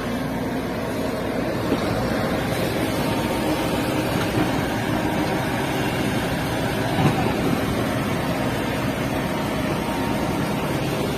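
SANY 140 excavator's diesel engine running steadily while it works, with one short clunk about seven seconds in.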